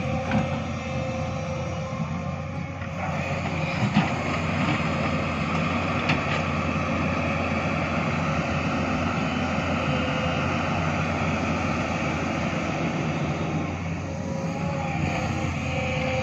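Diesel engine of heavy earthmoving equipment running steadily under work, growing louder about three seconds in, with a few sharp knocks.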